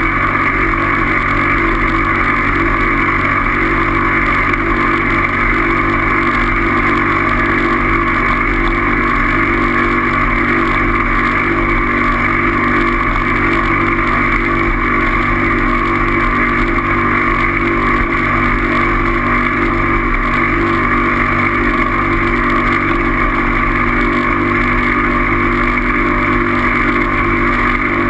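A steady vehicle drone that neither rises nor falls.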